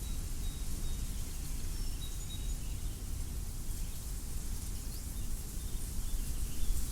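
Wind blowing over a wheat field, a steady rushing with a low rumble, with a few faint, short bird chirps in the first half.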